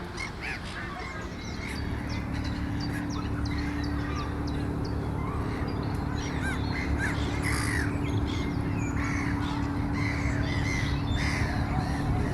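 Many short, repeated bird calls from a flock of water birds, with a steady low hum starting about a second and a half in and running underneath.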